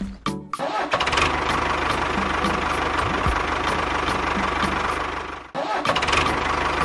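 A tractor-type engine starting and then running steadily at idle. It drops out briefly about five and a half seconds in, then picks up again.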